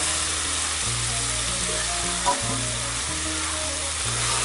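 Pork and onions frying in oil in an aluminium pot, a steady sizzle, as garlic paste is stirred in by hand. One soft knock comes a little past the middle.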